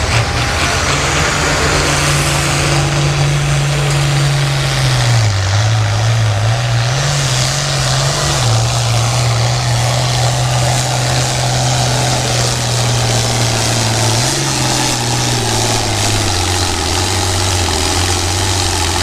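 International Harvester 966 tractor's engine at full throttle pulling the sled. It runs steadily, with the engine note sagging several times as the load builds, most noticeably about a third of the way in and again near the end.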